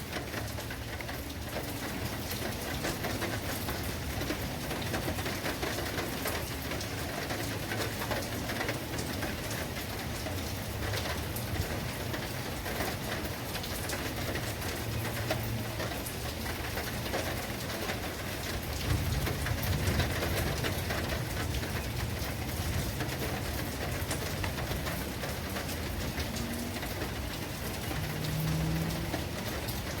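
Steady heavy rain falling, with a low rumble swelling briefly a little past the middle.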